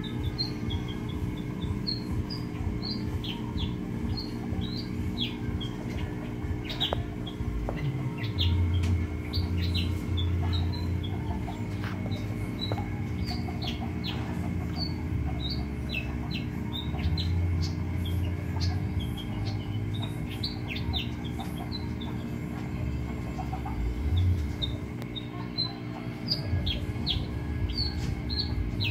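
Small birds chirping: many short, high chirps in quick succession, over a steady low hum.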